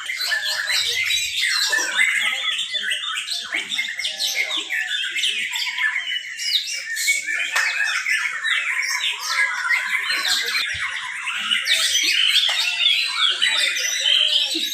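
Many caged songbirds singing at once: a dense, unbroken chorus of overlapping rapid whistles, chirps and trills.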